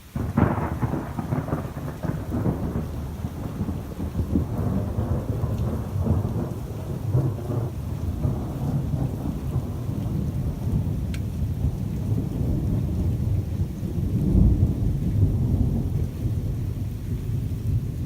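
Thunderstorm: a peal of thunder breaks right at the start and rolls away over several seconds, with rain falling steadily throughout; a second low roll of thunder swells about fourteen seconds in.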